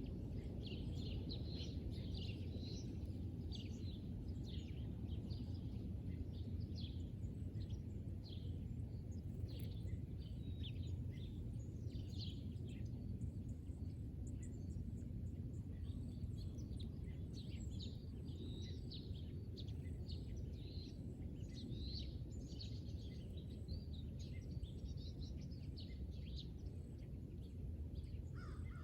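Small birds chirping, many short high calls overlapping, over a steady low background rumble. The chirping thins out for a few seconds around the middle, then picks up again.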